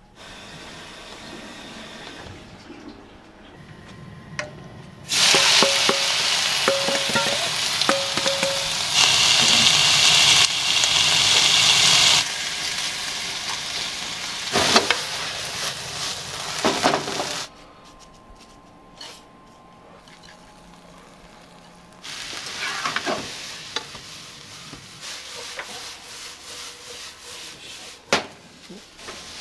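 Food sizzling on a hot iron teppan griddle, mixed with sharp metal clinks and scrapes of the spatulas. The sizzle jumps loud about five seconds in, drops away a little past the middle, and comes back more softly near the end.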